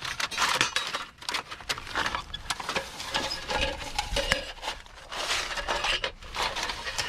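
Junk in a pile of discarded household items being rummaged through: irregular clinks and clatters of metal and other hard objects being shifted, with rustling and scraping in between.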